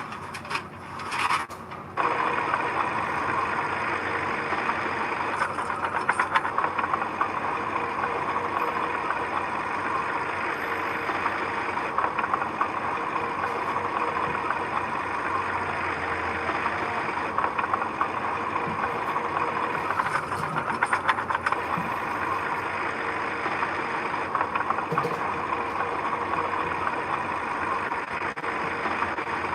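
Heavy construction machine's engine running steadily, coming in abruptly about two seconds in after a few short bursts of sound.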